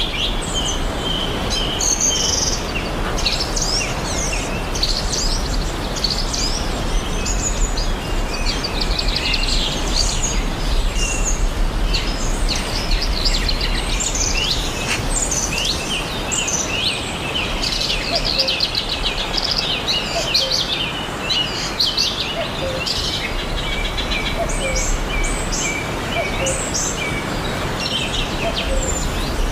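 Many small birds chirping and singing over a steady rushing background.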